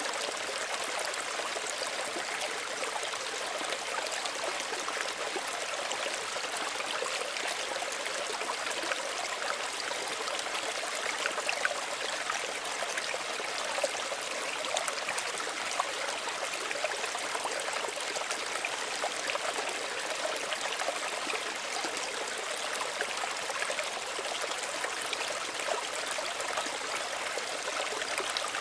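Small stream of water running and trickling steadily over stones, with small splashes and gurgles scattered through it.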